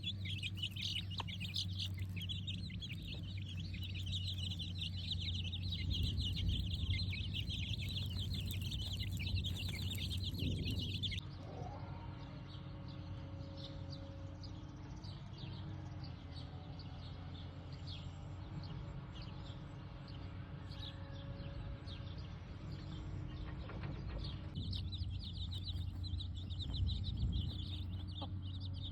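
Chickens clucking amid a dense chorus of high, rapid chirping. The chirping stops abruptly about eleven seconds in and returns near the end, over a steady low hum.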